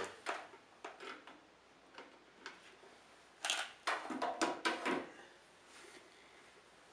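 A few scattered clicks and knocks, then a quick run of sharper knocks and rattles in the middle, with faint background hiss between them.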